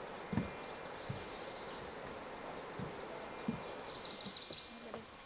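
Steady rushing of a mountain stream over rocks, with a few low thumps and a bird's rapid chirping about four seconds in.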